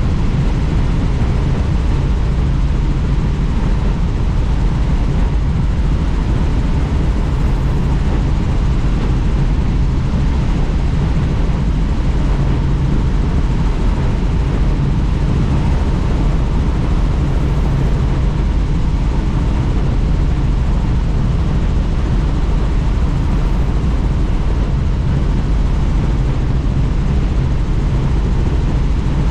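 Helicopter in flight, heard from inside the cabin with the doors off: steady rotor and engine noise under a heavy rush of wind.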